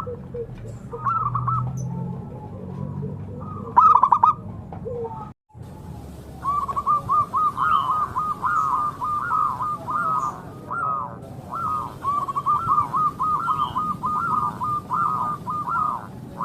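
Zebra doves (perkutut) calling in rapid runs of short cooing notes. There are short bursts in the first few seconds, then, after a brief break at about five seconds, a near-continuous run of coos.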